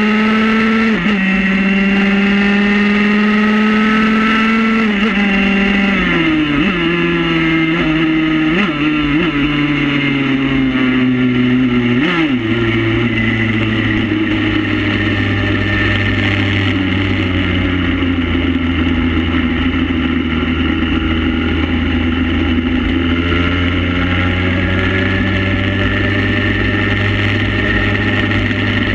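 Motorcycle engine running under way at road speed. Its note holds high for the first few seconds, drops in several steps between about five and twelve seconds in, then settles to a steady, lower drone.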